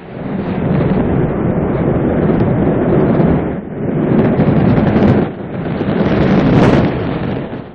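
Rocket engine noise at launch: a loud, deep, rumbling roar that dips briefly twice, a little under four and about five seconds in.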